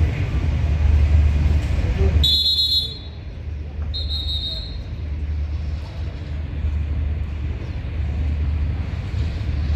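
GE diesel-electric locomotive idling with a steady low rumble. Two short high-pitched tones sound about two and four seconds in.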